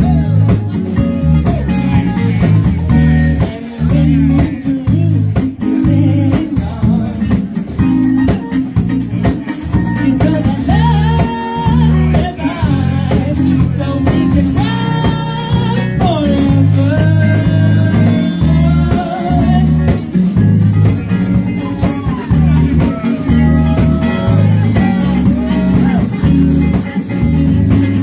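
Live band playing a bluesy rock jam: electric guitar over bass guitar and drums, with a bending lead line in the middle of the passage.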